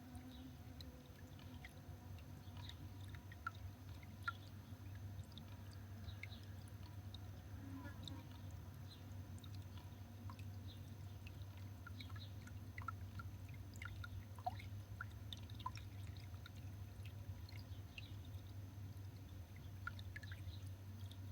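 Faint, scattered short calls and ticks from small garden birds at a feeder, irregularly spaced, over a steady low hum.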